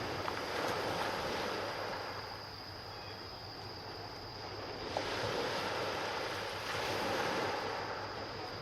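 Sea surf washing on the shore in slow swells that rise and fade every few seconds, with wind.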